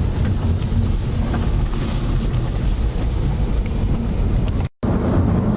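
Steady road rumble of a moving car, tyre and engine noise from inside the cabin, with some wind on the microphone. It cuts out for a split second near the end, then the same rumble resumes.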